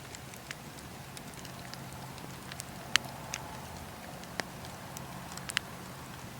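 Wood fire crackling in a fireplace: scattered sharp pops over a steady low rumble of burning, with the loudest pop about three seconds in and two more near the end.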